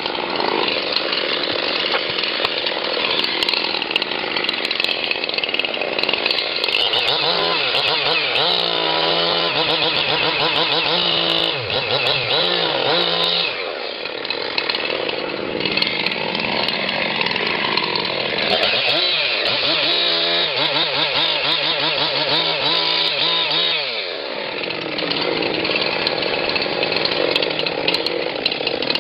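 Two-stroke chainsaw running at high revs while cutting through wood. Its engine note wavers and drops under load twice, once mid-way and again later, then recovers.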